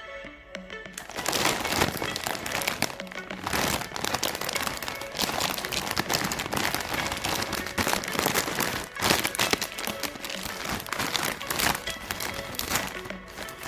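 Plastic snack wrappers crinkling and tearing as packets are opened by hand, starting about a second in and continuing in dense crackles, over quiet background music.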